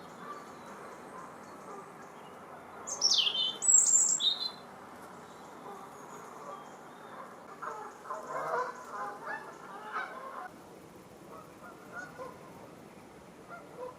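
Wild bird calls: a few sharp, high, falling calls about three to four seconds in, the loudest part, then a cluster of lower calls around eight to ten seconds in.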